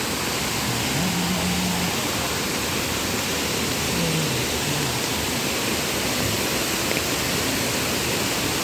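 Waterfall rushing: a steady, loud hiss of falling water. Faint voices are heard briefly about a second in and again around four seconds.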